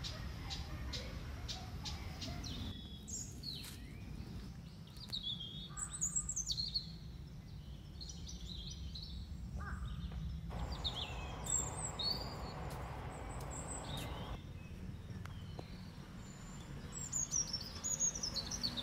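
Small birds chirping and twittering in several short high phrases, some sliding downward in pitch, over a low steady background rumble.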